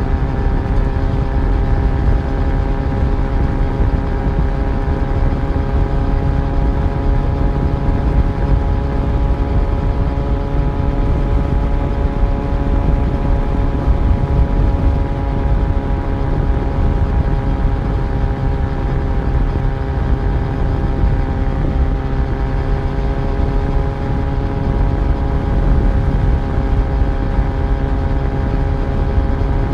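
Yamaha FZ1's inline-four engine running at a steady cruise during a ride, its note holding nearly level and easing slightly lower in pitch over the half-minute, over a constant low rumble.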